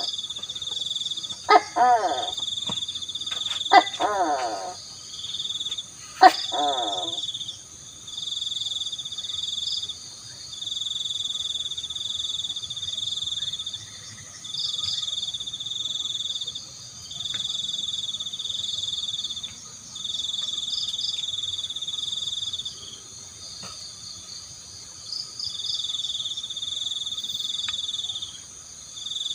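Tokay gecko calling three times in the first seven seconds, each call a loud, wavering, throaty note. Under it, a night chorus of frogs and insects keeps up a high trill that switches on and off every second or two.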